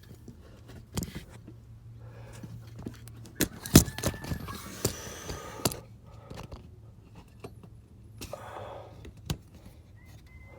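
Scattered clicks, knocks and scrapes of hands feeding a spark plug wire through a cramped engine bay, with a sharp knock about four seconds in.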